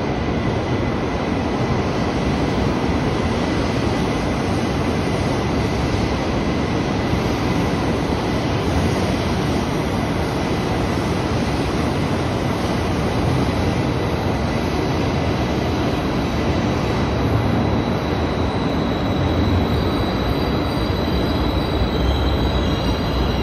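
E2 series Shinkansen train rolling slowly into a station platform: a steady rumble and rush of wheels and running gear. High, thin wheel-squeal tones come in about 19 seconds in as the train slows.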